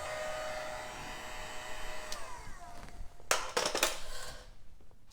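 Heat gun blowing steadily with a motor whine on a low setting, warming adhesive strips. About two seconds in it is switched off and the whine falls in pitch as the fan spins down. A few sharp clicks and knocks follow.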